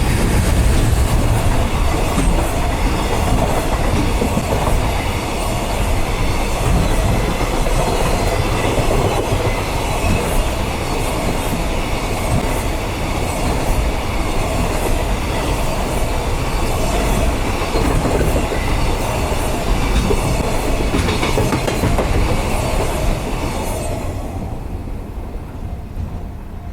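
Electric passenger train passing close by on the JR line, wheels clattering over the rail joints for over twenty seconds, then fading away near the end.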